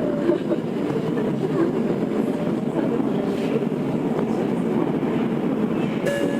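Tokyo Metro 02 series subway train with IGBT inverter drive, heard from inside the car: the steady rumble of wheels and running gear as it slows on the approach to a station. A faint falling inverter whine sounds at the very start, and a few steady high tones join in near the end.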